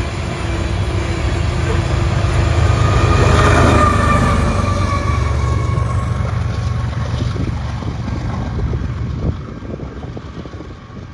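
Freight train rolling by: loaded ore hopper cars rumbling along the rails. About six seconds in the sound changes to a quieter, lower rumble of an approaching diesel locomotive, and it eases further near the end.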